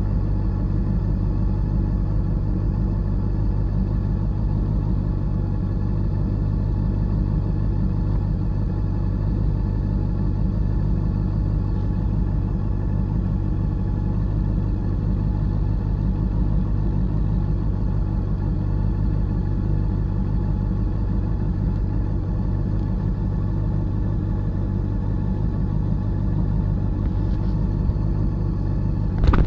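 Honda CB400SF Hyper VTEC Spec3's inline-four engine running steadily at an even, unchanging pitch, a low rumble.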